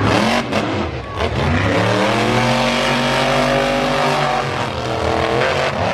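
Monster truck engine revving: the pitch dips, climbs about two seconds in and holds high, then drops back near the end.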